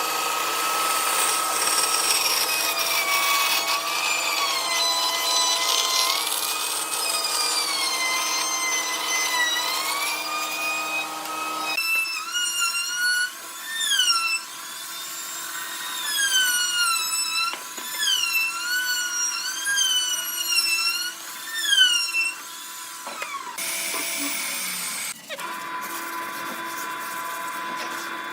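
Woodturning on a lathe: a cutting tool scraping the spinning wood, with whining tones that slide up and down in pitch. The sound changes abruptly twice, about twelve seconds in and again near the end.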